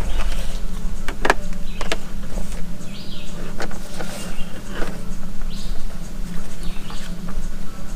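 Steady low hum throughout, with scattered clicks and rustles of gear being handled as a hydration pack is rummaged through, and a few short high chirps.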